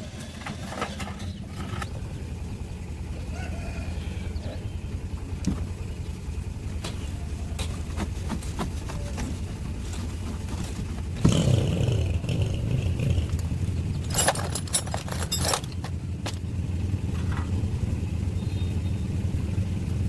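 Old tractor's engine running steadily, with a sudden louder surge about eleven seconds in and a few sharp clicks a few seconds later.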